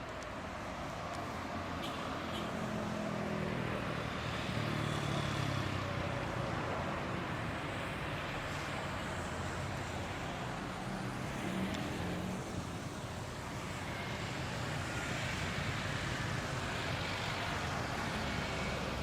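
Steady distant engine noise, with a faint high whine above it, swelling slightly a few seconds in and again near the end.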